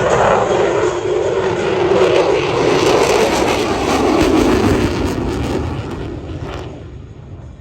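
Jet noise of an F-22 Raptor's twin Pratt & Whitney F119 turbofans during a flyby pass. It is loud and steady for about five seconds, then fades away as the jet moves off.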